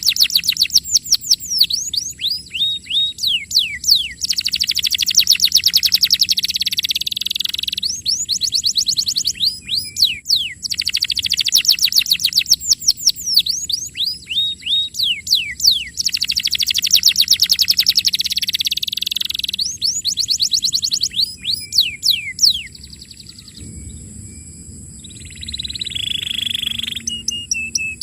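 Domestic canary singing in long runs of fast repeated falling whistles and rapid trills. The song breaks off about 23 seconds in and comes back more softly near the end.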